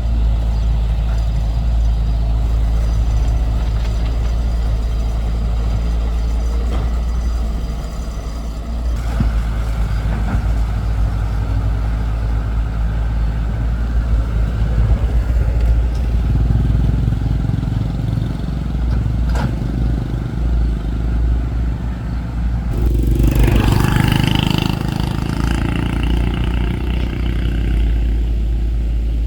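Excavator's diesel engine running steadily with a deep rumble, working under varying load. About 23 seconds in, a louder, harsher stretch of noise lasts a few seconds.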